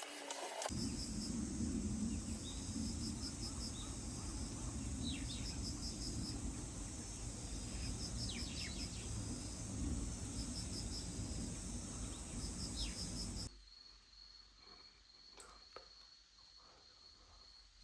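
Insects chirping in repeated pulsed trills over a low rumble. About 13 seconds in it cuts abruptly to quieter, steady high-pitched insect trilling.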